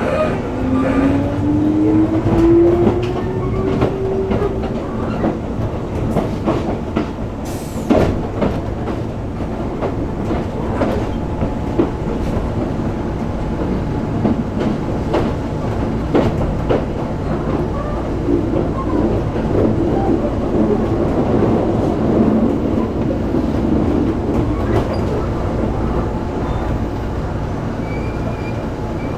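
Keisei 3400 series electric train running slowly through depot trackwork, heard from inside the car. A motor whine rises in pitch over the first few seconds as it pulls away, and the wheels clack over rail joints and points, with a faint wheel squeal.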